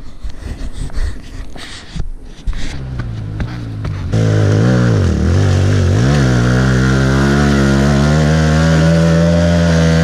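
Clattering knocks for the first few seconds, then a pit bike's small single-cylinder engine comes in loud about four seconds in. Its pitch dips twice, then holds high and steady under throttle.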